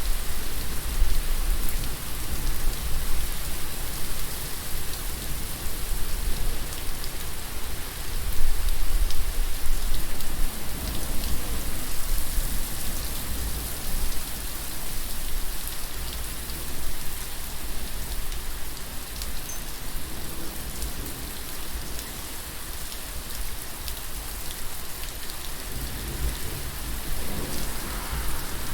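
Steady rain falling on surfaces, with a low rumble underneath that swells about eight seconds in and again near the end.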